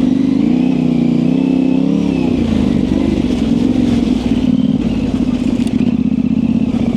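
Yamaha Tenere 700's 689 cc parallel-twin engine running at low revs through an aftermarket high exhaust. Its pitch rises and falls briefly about a second in, then holds steady.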